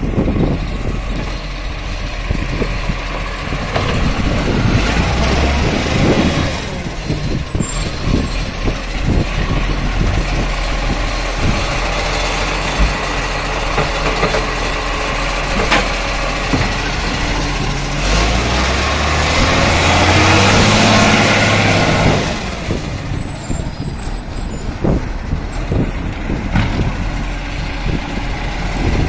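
Garbage truck running close by, its engine a steady low drone with scattered knocks and clatter. About two-thirds through, a louder stretch of rushing noise lasts a few seconds before dying back.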